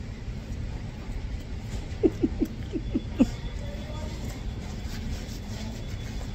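A person eating close to the phone's microphone, with a quick run of about six short, squeaky mouth sounds falling in pitch a couple of seconds in, over a steady low background rumble.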